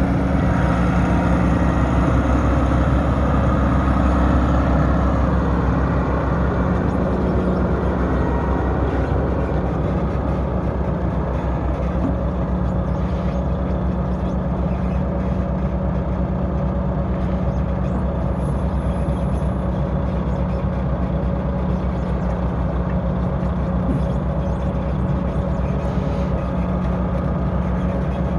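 Heavy diesel engine running steadily, a little louder in the first few seconds and then even.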